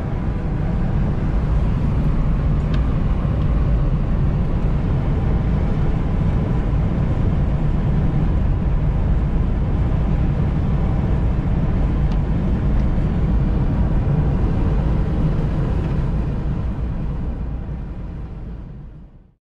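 Pickup truck driving: a steady low rumble of engine and tyre noise that fades out near the end.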